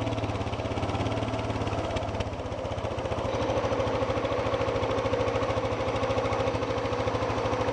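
ATV engine running at low speed, a steady even pulse with a constant higher tone over it.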